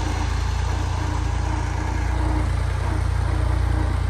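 Fiat 480 tractor's three-cylinder diesel engine running steadily at low revs, its sound deep and even.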